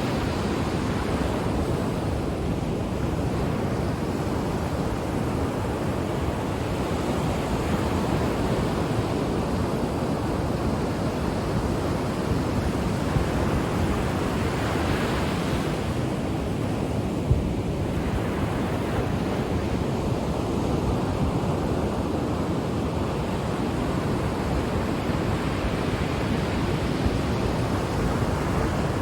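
Ocean waves breaking and washing on the shore: a continuous rushing surf with slow swells, one brighter surge about halfway through, and wind on the microphone.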